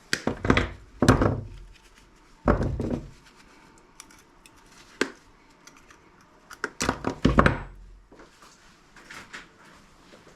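Knocks and clattering from a scrap electronic part, thought to be from a microwave, being handled and pried apart by hand. They come in several short clusters with quiet gaps between, the loudest in the first second and again about seven seconds in.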